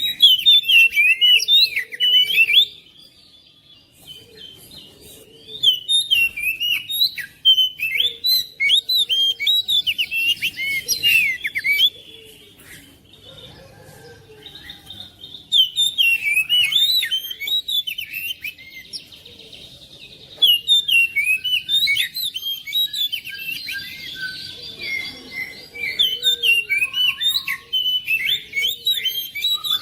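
Oriental magpie-robin (kacer) singing: fast, varied phrases of sharp chirps and whistles in bursts of several seconds, broken by short pauses.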